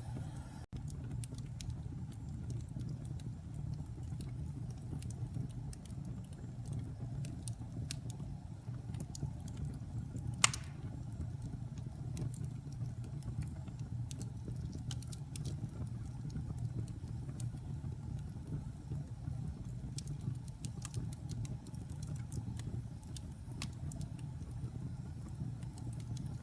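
Wood fire burning in a fireplace: a steady low roar with scattered crackles throughout and one sharp pop about ten seconds in.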